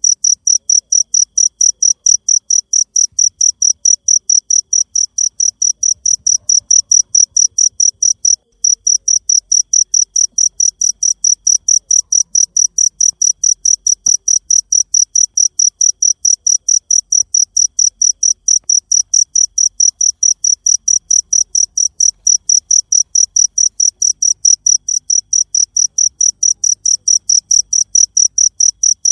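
A cricket chirping close by in a fast, very even run of high pulses, about four or five a second, with one brief break about eight seconds in.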